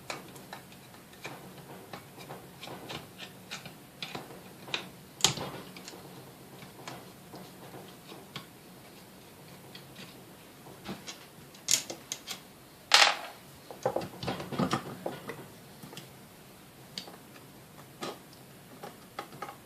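Irregular small clicks and taps of tools and metal parts being handled as the back cap is worked off a Sunbeam Mixmaster Model 7B motor, with a few louder knocks about five seconds in and twice around twelve to thirteen seconds in.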